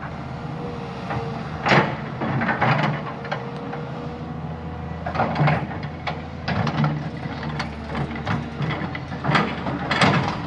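Diesel engine of a heavy earthmoving machine running steadily under work, with irregular bursts of scraping, clattering noise over it, the loudest about two seconds in and near the end.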